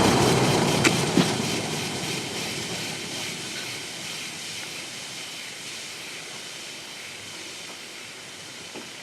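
Vintage Sears box fan spinning down after being switched off, its blade and air noise fading steadily away, with a couple of small ticks about a second in. The fan is making a noise that the owner cannot identify; its blades are slightly warped.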